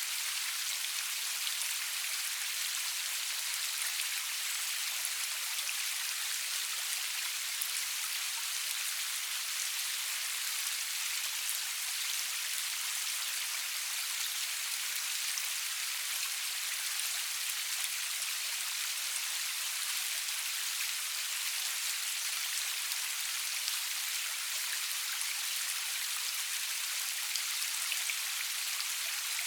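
Steady rainfall, a continuous high hiss with scattered fine drop ticks and no thunder.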